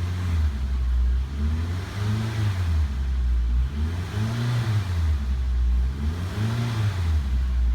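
2009 Suzuki SX4's four-cylinder engine being revved in short blips, its pitch rising and falling about four times, roughly every two seconds, then settling back toward idle between each.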